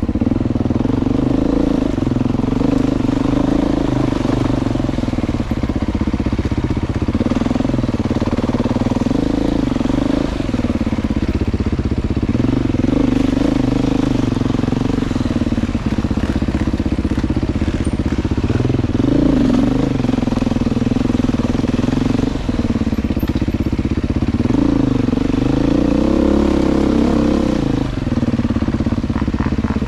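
Motorcycle engine running under way, its pitch rising and falling as the throttle opens and closes, with short drops every few seconds as the revs fall away.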